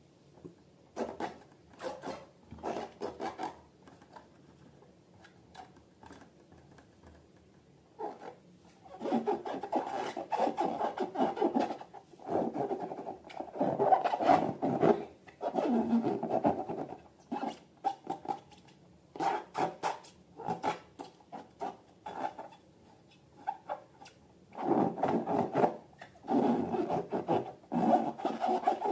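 Hands squeezing and rubbing slime and rubber balloons, making rubbing, rasping squish noises in irregular bursts, with a quiet pause in between.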